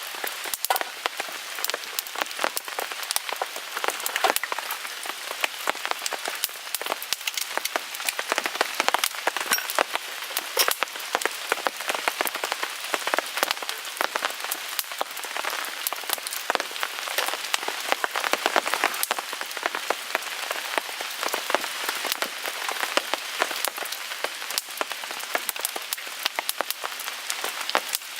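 Steady rain pattering on a tarp, a dense run of irregular ticks and taps, mixed with a small wood fire crackling in a Picogrill 398 fire pit.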